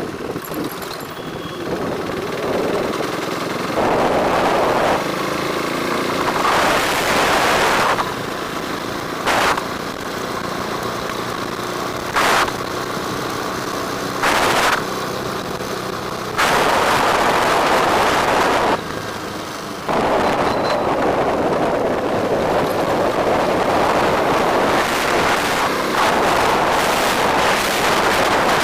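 Wind rushing over the microphone of a moving bike, with road and traffic noise underneath. The wind noise jumps suddenly louder and quieter several times, with a few short sharp gusts.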